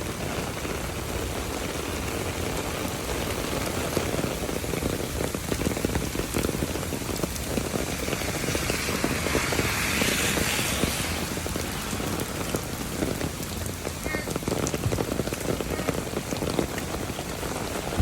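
Rain falling steadily, with a dense patter of drops close by. A brighter hiss swells and fades about eight to eleven seconds in.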